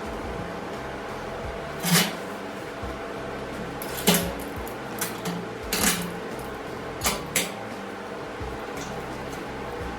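Handled metal parts clanking and knocking about five times, sharp and separate, over a steady background hum.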